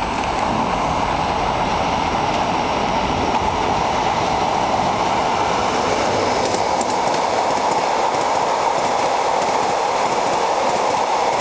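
A train running past close by: a steady rolling noise of wheels on the rails, with a few light clicks about six to seven seconds in.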